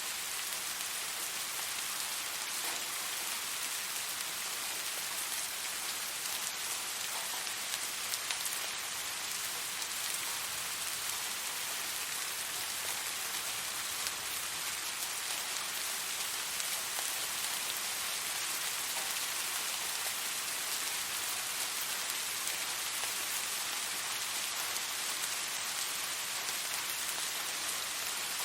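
Steady rain falling and pattering on a surface, an even hiss of many fine drops with no thunder.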